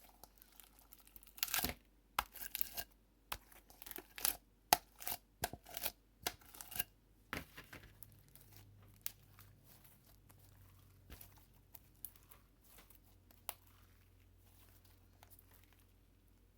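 Homemade glue slime being kneaded and stretched, giving sticky crackling pops and snaps as it pulls apart; the pops come thick and fast for the first half, then thin out to occasional clicks.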